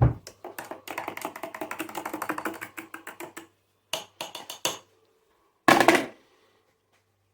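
Rapid clinking and rattling of crockery and utensils for about three seconds, then a few separate knocks and one loud clatter about six seconds in.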